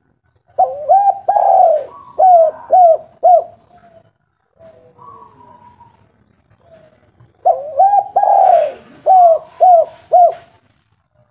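Spotted dove (tekukur) cooing: two song phrases about seven seconds apart, each a short rising note, a longer drawn-out coo, then three short coos. Fainter, higher bird notes sound in the gap between the phrases.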